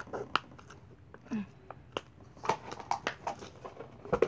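Kinetic sand slime being poked and pulled apart by hand, giving scattered soft clicks and crackles at irregular spacing.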